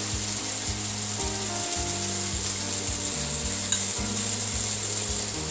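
Onion, ginger and garlic masala paste sizzling steadily in a nonstick kadai, with soft background music underneath.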